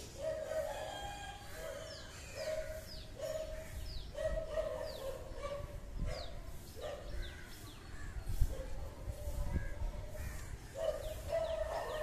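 Birds calling outdoors: many short, falling high chirps over a lower, steadier call that repeats every second or so. One sharp tap comes about eight seconds in.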